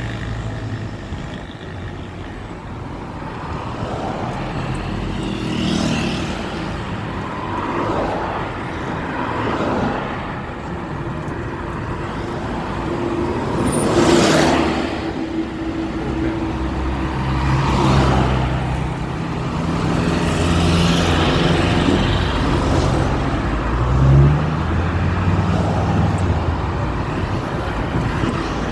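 Road traffic: cars passing one after another, each swelling and fading, over a steady low engine hum. The loudest pass comes about halfway through, and there is a short louder sound a few seconds before the end.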